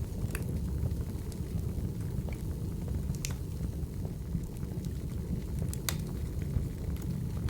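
Firewood burning: a steady low rumble of flames with sharp crackles and pops scattered through it, the loudest pop about six seconds in.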